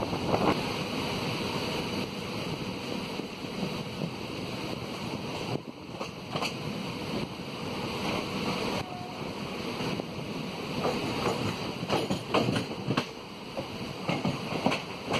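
Passenger train running along the track, heard from beside the coach with wind on the microphone: a steady rumble of wheels on rails and rushing air. A few sharp clatters stand out, as the wheels pass over rail joints and points.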